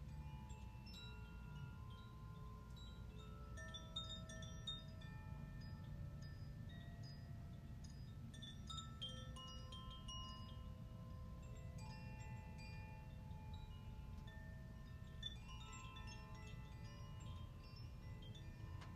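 Wind chimes ringing softly, with many clear tones at different pitches sounding irregularly and overlapping, over a low steady rumble.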